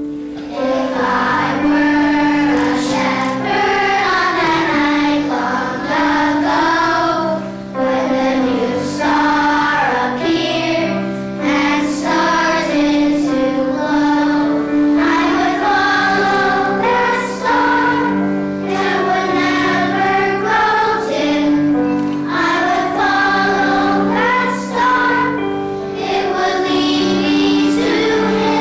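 Children's choir singing in unison over a steady instrumental accompaniment.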